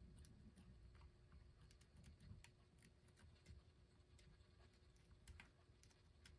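Near silence with faint, irregular small clicks and taps of tiny metal parts and tools being handled while fitting a C-clip in a record player's mechanism.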